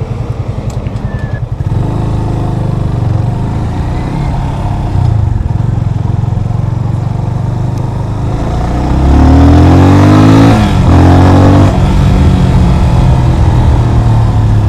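Yamaha FZ25's single-cylinder engine ticking over with an even pulse, then pulling away and running steadily. About nine seconds in it revs up sharply and drops back at a gear change, the loudest moment, then settles to a steady cruise.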